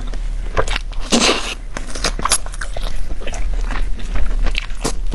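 Close-miked biting and chewing of food, with wet clicks and a crunchy bite about a second in.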